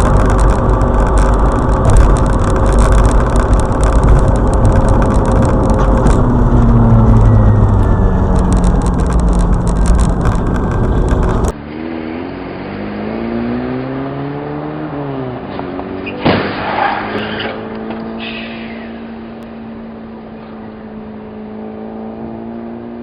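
Car engines and road noise heard from inside a car. At first there is loud rushing road noise under the engine. After a sudden cut, an engine rises and falls in pitch as it pulls through the gears. About 16 seconds in there is one sudden sharp bang with brief high squealing around it, and then the engine settles to a steady note.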